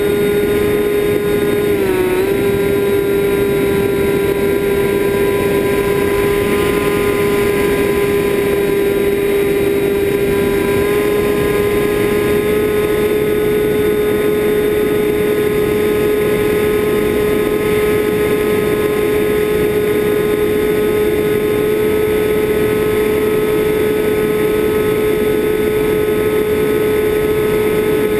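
FPV drone's motors and propellers whining at a near-steady pitch, with a brief dip about two seconds in and a slight rise around eleven seconds.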